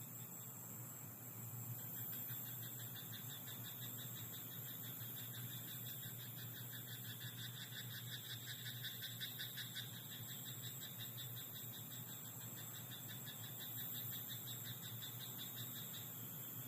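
Frogs in a rice paddy chorusing: a continuous run of fast, pulsing trills that swells about a second and a half in and drops away near the end.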